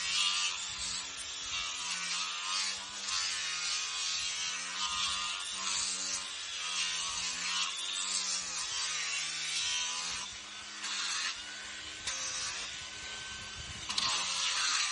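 A small electric power tool running with a buzzing hum whose pitch dips and recovers as it is pressed into the work, over a grinding hiss that swells and eases.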